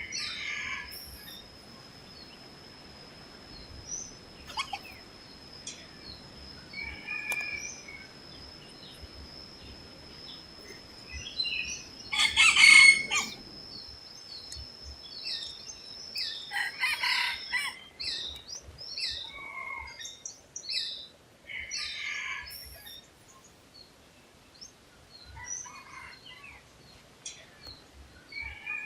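Red junglefowl cock crowing, the loudest call a little before the middle and another a few seconds later, among scattered short chirps of other forest birds. A thin steady high tone runs through the first half.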